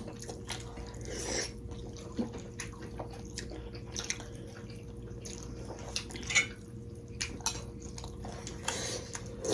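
People eating momo dumplings: wet chewing and mouth smacks with scattered small clicks, over a faint steady hum.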